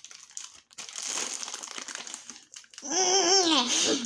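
Plastic toy packaging crinkling and rustling as a child works at opening it, then about three seconds in a child's voice for roughly a second.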